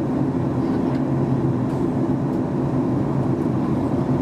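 Steady cabin noise inside a Boeing 737 MAX 8-200 during descent: the drone of its CFM LEAP-1B engines and the rush of air along the fuselage, with a low, even hum underneath.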